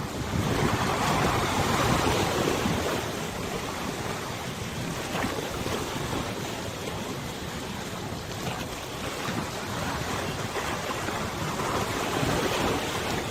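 Wind gusting on the microphone over the sound of river water washing, swelling about a second in and again near the end.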